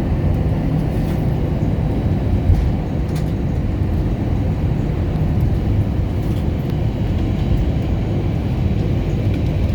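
Steady low rumble inside the cabin of an Airbus A321-200 taxiing after landing, from its jet engines at idle and its wheels rolling on the taxiway.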